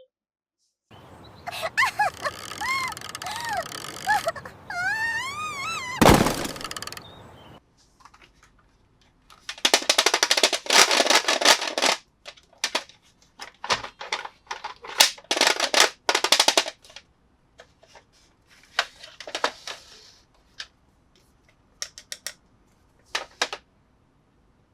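Plastic toy parts and packaging being handled, making bursts of dense clicking and crinkling and scattered single clicks. A warbling pitched sound over a hiss fills the first several seconds.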